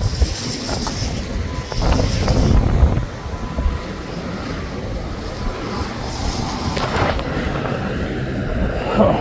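Wind buffeting the microphone over the rumble of passing road traffic, heaviest in the first three seconds.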